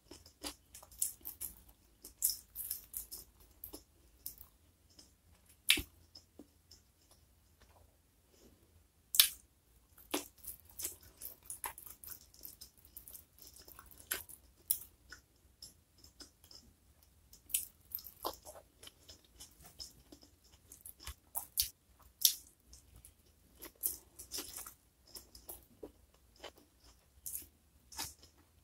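Close-miked mouth sounds of a person eating rice and boiled leafy greens with sambal by hand: irregular wet chewing clicks and smacks with short quiet gaps between them.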